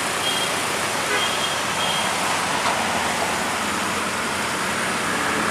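Steady road traffic noise from trucks and other vehicles on a steep hill road, an even mix of engine and tyre noise.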